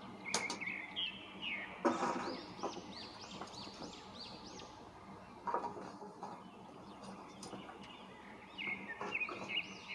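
A small bird chirping in quick runs of short high notes, strongest near the start and again near the end, with a few soft knocks in between.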